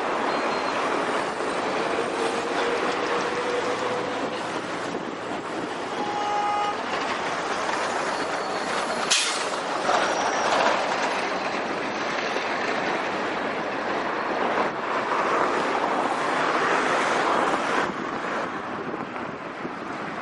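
Heavy truck driving past with steady engine and road noise and a clattering body, and one sharp click about nine seconds in.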